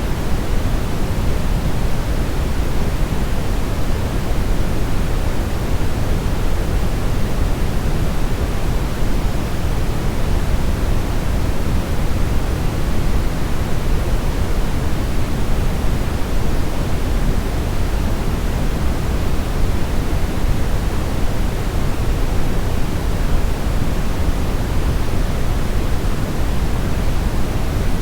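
Steady brown noise: a deep, even rushing hiss, strongest in the bass and fading toward the treble, unchanging throughout.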